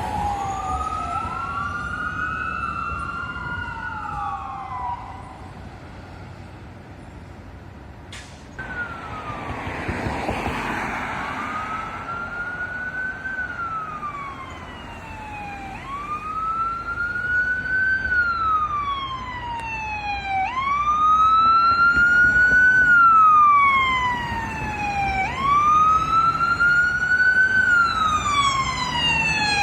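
Emergency vehicle sirens wailing in slow rising and falling sweeps. A fire engine's siren fades in the first few seconds; after a cut about 8 s in, a Vancouver Fire Rescue battalion chief's vehicle siren cycles up and down, growing louder as it approaches.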